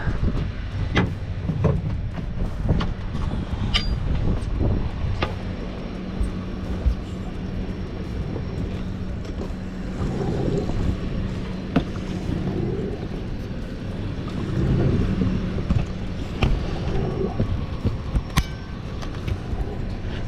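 A boat's engine running steadily with a low rumble and a faint hum, with scattered clicks and knocks on deck.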